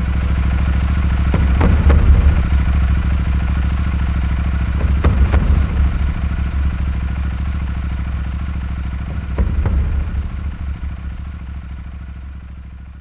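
Royal Enfield 500's single-cylinder engine running steadily, with a few sharp clicks, the sound fading out near the end.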